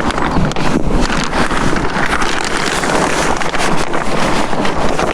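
Dry potting compost being tipped and rustling into a plastic tub, a dense crackling pour, with wind buffeting the microphone.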